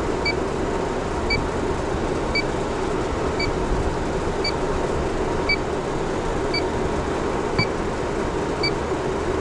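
Electronic refrigerant leak detector beeping at a slow, even rate, a short high pip about once a second, finding no leak at the condensing unit. Behind it the condensing unit runs with a steady hum.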